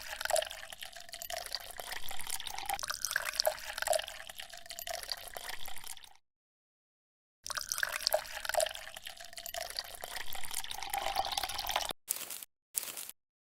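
Water trickling and dripping with small splashes, broken off abruptly about six seconds in and resuming over a second later, then a few short chopped snippets near the end.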